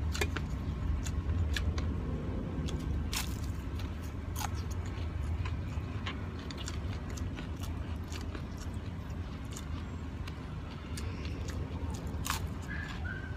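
Close-up eating sounds: a person biting into and chewing crispy fried daing na bangus (split, dried milkfish), with scattered sharp crunches and crackles, over a steady low rumble.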